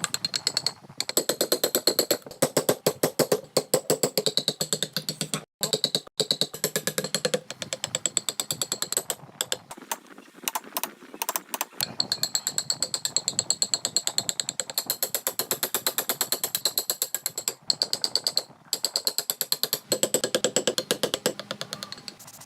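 Rapid run of clicks and scrapes from a carving tool working wood, several strokes a second, cut off abruptly now and then.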